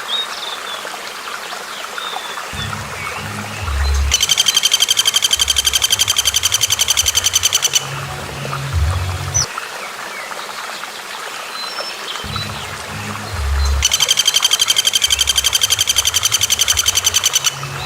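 Recorded bird song: twice, a rapid trill of evenly repeated high notes lasting nearly four seconds, with scattered short chirps between. Under it are a steady hiss like running water and a low repeating background pattern.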